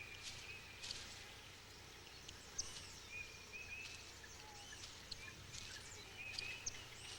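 Faint open-country ambience with scattered short, high bird chirps and calls.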